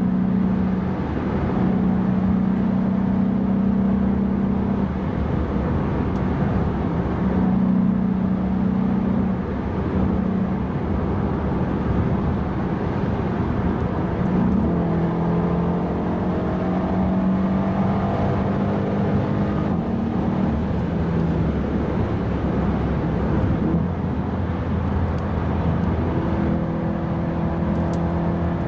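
Mercedes-AMG E63 (W212) twin-turbo V8 heard from inside the cabin while driving, its note holding steady and stepping in pitch, with a slow rise about halfway through as the car accelerates, over road and tyre noise.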